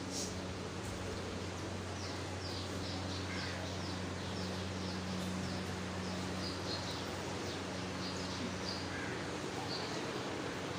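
Small birds chirping in quick runs of short high notes over a steady low hum.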